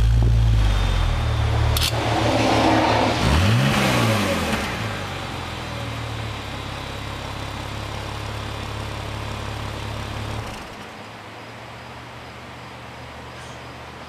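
BMW E36/E46 engine and exhaust just started and running, with one brief rev about three to four seconds in before settling to a steady idle. About ten seconds in, the exhaust note drops noticeably quieter, losing its deep bass.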